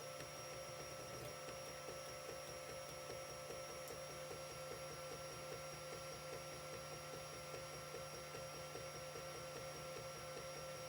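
Creality CR-10 3D printer running a print, its stepper motors giving a steady whine. A regular pattern repeats about three times a second as the print head moves back and forth.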